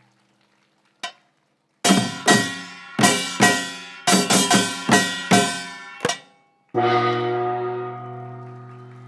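Live band ending a song: a single click, then a run of about a dozen accented full-band chord hits with cymbals. After a short break, a final held chord starts and slowly fades.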